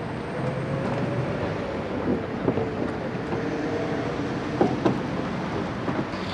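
Wind noise on the microphone over a steady mechanical hum, with a few short, sharp knocks.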